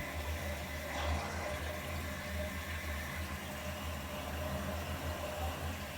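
Water running through a drain pipe as a steady rushing noise, over a steady low hum.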